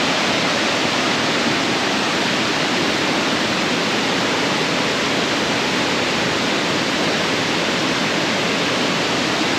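Waterfall water rushing down a tiered cascade: a steady, even rush of falling water.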